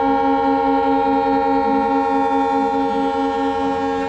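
Diesel locomotive's multi-note air horn held in one long, steady blast, several notes sounding together as a chord. It is sounded at length as the train leaves the station.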